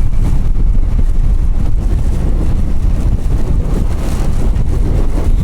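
Wind buffeting the microphone over a Triumph Scrambler motorcycle's engine running at road speed: a loud, steady low rumble.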